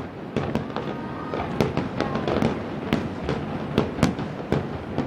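Fireworks display: aerial shells bursting in quick, irregular succession, several sharp bangs a second.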